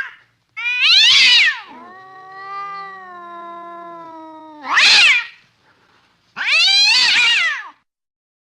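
Domestic cat caterwauling: three loud, high wailing yowls, with a long, lower, drawn-out moan between the first two. These are the yowls of an angry, threatening cat.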